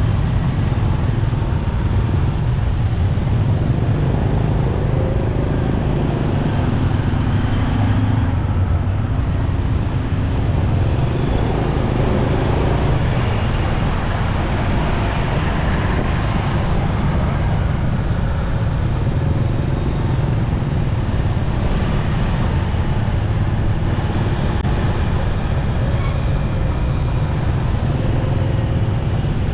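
Riding a motorcycle in heavy road traffic: the bike's engine and the surrounding cars and motorbikes run as one steady, continuous traffic noise.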